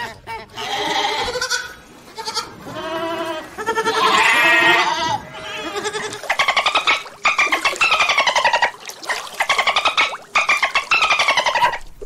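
A series of loud, high-pitched animal calls, falling in pitch in the first half, then a string of fast-trembling cries from about halfway on.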